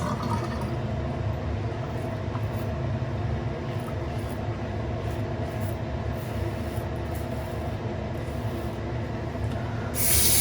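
A steady low mechanical rumble with a held hum in it, even in level throughout.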